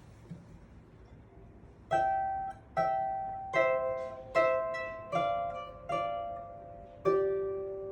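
A solo instrument begins a slow melody about two seconds in, playing single notes one after another, each starting sharply and fading away.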